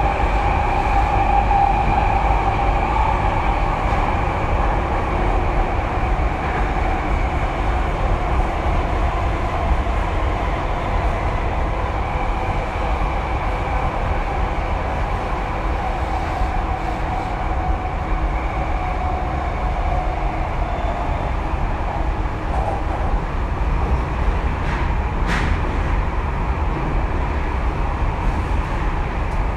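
Tokyu 2020 series electric train heard from inside the car while running: a steady rumble of wheels on rail with a faint motor whine that fades slowly. There is one brief click near the end.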